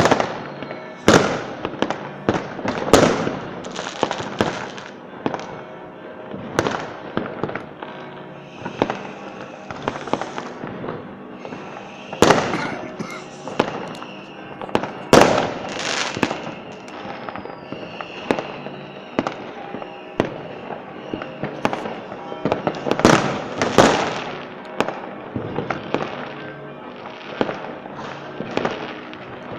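Fireworks display: a dense, continuous run of shell bursts and bangs, with the loudest reports about twelve, fifteen and twenty-three seconds in.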